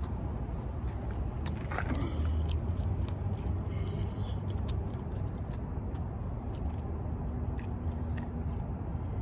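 A person biting and chewing fried chicken close to the microphone, with scattered short crunchy clicks over a steady low hum.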